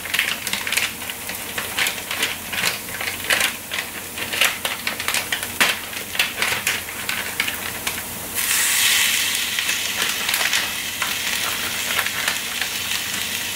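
Diced onion frying in oil in a small pan, crackling with frequent pops. About eight seconds in, frozen sliced meat is tipped into the pan and the sizzle jumps to a louder, steady hiss.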